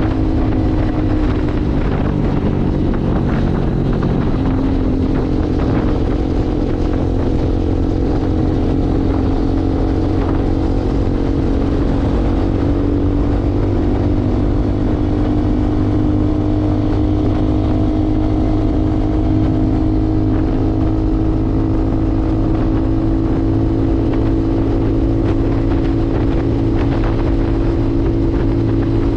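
Motorcycle engine running at a steady cruise, heard from the rider's seat. Its note dips briefly about two to four seconds in, then picks back up and holds steady.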